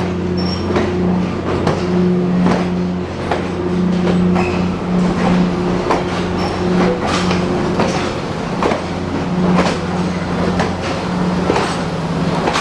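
A diesel-electric locomotive engine running with a steady low drone while the train's wheels click over rail joints again and again.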